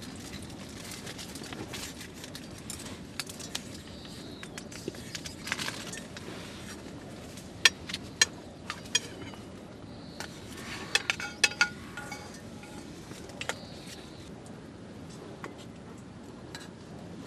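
Light metallic clinks and taps, as of metal cookware and utensils being handled, coming in scattered single knocks with a quick cluster near the middle. A steady low background noise runs beneath them.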